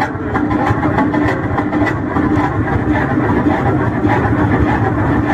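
Large engine running steadily with a low hum and a loose knocking beat.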